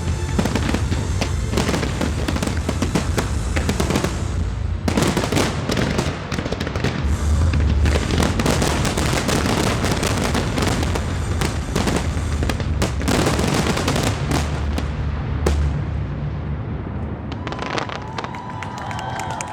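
Dense barrage of aerial fireworks, shells bursting and crackling in rapid succession with deep booms. The bursts thin out near the end.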